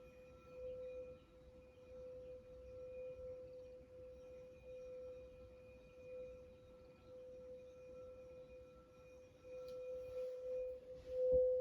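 Crystal singing bowl ringing a single sustained tone, slowly wavering in loudness. Near the end a soft knock sounds and the tone swells louder as the bowl is played again.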